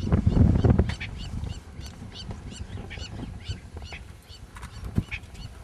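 Birds calling: a steady run of short, high honking calls, about three a second. A low rumble fills the first second, and there is a single sharp knock about five seconds in.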